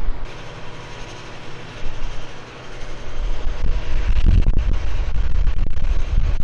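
Jet airliner engine noise: a loud, gusty low rumble that drops back soon after the start and swells loud again from about three and a half seconds in.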